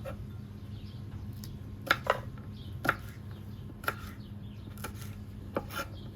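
A string of sharp clicks and knocks at irregular intervals, about eight in all, over a steady low hum.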